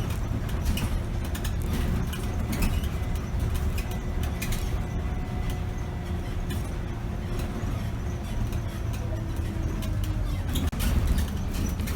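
2008 Scania K270 city bus driving, heard from the driver's cab: a steady low diesel engine and road rumble with many small clicks and rattles, the level dipping briefly and swelling about three-quarters of the way in.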